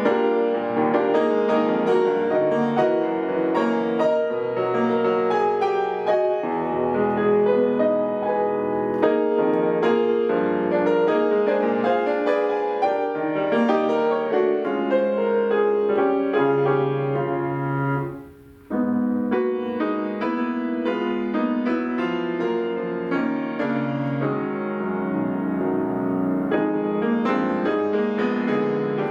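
Solo piano playing a continuous flowing passage, broken by a brief silence of about half a second roughly two-thirds of the way in, before the playing resumes.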